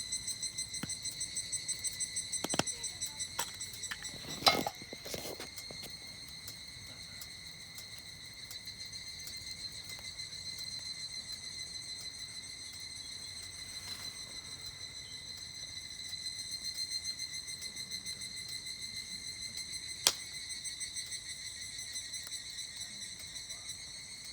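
Higurashi (evening cicada) calling: a high, pulsing, ringing chorus that swells and fades. A campfire gives a few sharp pops and crackles over it, with a cluster of them about four seconds in and a single loud pop later on.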